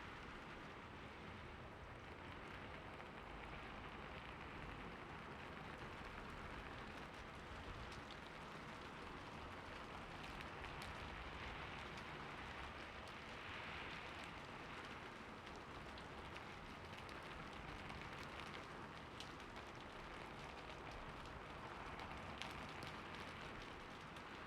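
Steady rain falling on a roof: a continuous patter with scattered sharper drop ticks, the rush swelling and easing a little now and then.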